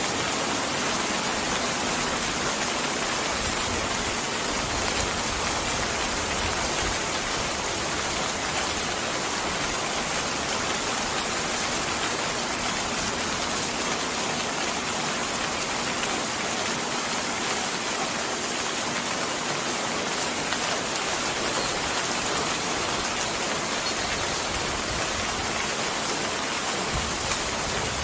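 Steady rainfall, an even hiss of drops falling on surfaces.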